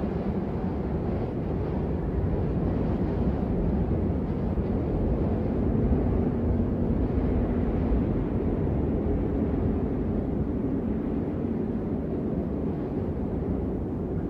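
Blizzard wind ambience: a steady, low rushing wind that swells a little around the middle.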